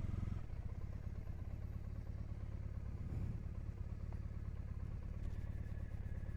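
Triumph Bonneville's parallel-twin motorcycle engine idling steadily.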